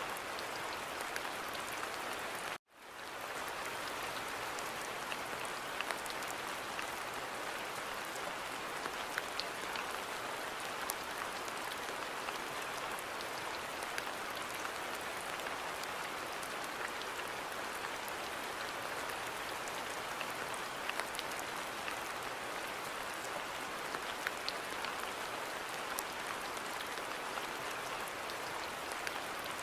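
Steady rain falling on a garden, a dense hiss with scattered individual drops ticking. About two and a half seconds in, the sound cuts out for an instant and then fades back in.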